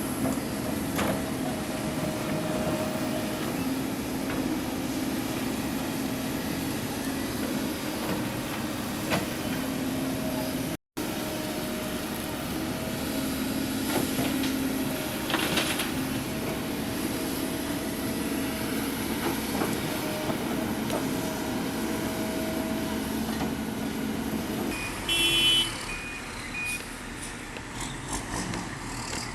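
Heavy diesel engine of road-works machinery running steadily, broken once by a sudden moment's gap about eleven seconds in. Near the end the engine sound drops away and a few short high beeps sound.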